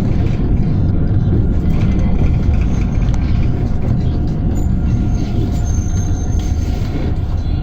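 PAZ-320405-04 Vector Next city bus running, heard from inside the cabin as a steady low rumble of engine and road noise.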